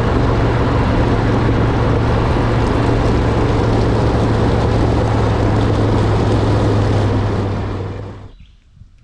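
Garage door opener motor running steadily with a loud low hum while it drives the door, then winding down and stopping near the end.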